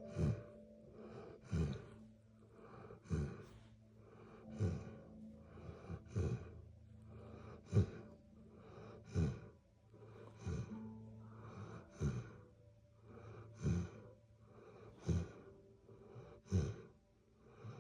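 Black Labrador snoring in its sleep: a short snore with falling pitch about every second and a half, with breathy hiss in between.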